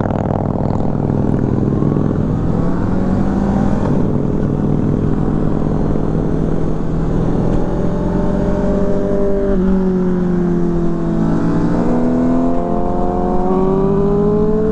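Kawasaki Versys 650's parallel-twin engine pulling under acceleration while riding. Its pitch climbs steadily, then drops suddenly twice with upshifts, about 9.5 and 12 seconds in, and climbs again.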